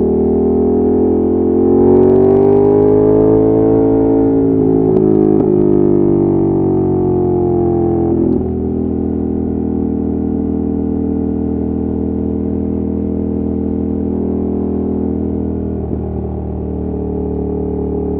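Ducati Monster 1200's L-twin engine running under way, its note slowly rising over the first few seconds and then easing off. About eight seconds in it drops to a lower, slightly quieter note and holds steady at cruising pace.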